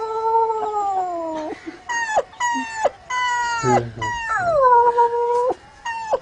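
A man imitating a crying dog with his voice: long whining howls that slide down in pitch, broken by short yelps.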